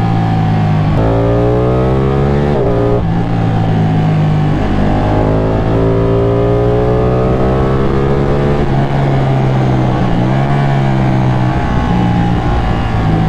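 Ducati Panigale 899's V-twin engine heard onboard under acceleration, its note rising through the revs. It drops sharply at an upshift about three seconds in, pulls up again in a long rise, then shifts again and climbs once more near the end.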